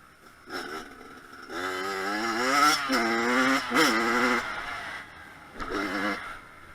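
Kawasaki KX100 two-stroke motocross bike revving on the throttle. There is a short burst about half a second in, then a long loud stretch of wavering pitch with two quick drops, then another short burst near the end.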